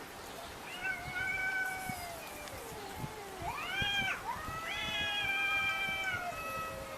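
Domestic cats yowling at each other in a standoff: long, drawn-out wavering wails, one swooping up and down about halfway through, then a long held yowl near the end. This is the warning caterwaul cats make before or instead of a fight.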